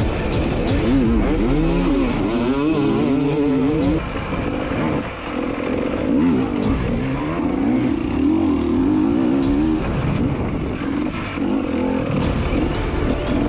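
Dirt bike engine revving up and down over and over, with a brief drop in level about five seconds in.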